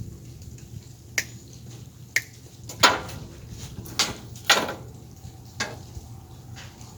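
About six sharp clicks and snaps, spread unevenly, from handling wires and small hand tools while wiring up 12-volt LED lights, over a low steady hum.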